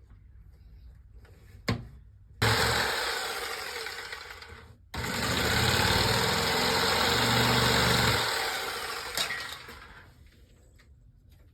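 Jigsaw cutting out a traced shape, running in two bursts: a short cut of a couple of seconds, then after a brief pause a longer run of about four seconds that tails off.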